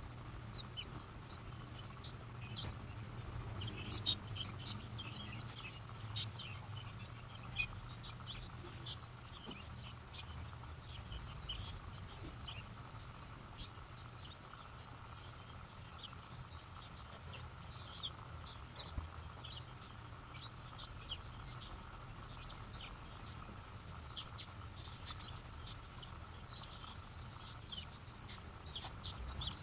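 Birds chirping: many short, scattered chirps that come thickest in the first several seconds and again near the end, over a low steady hum.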